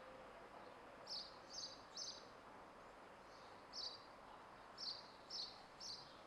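Faint outdoor background hiss with a small bird giving short, high chirps, about seven in small groups.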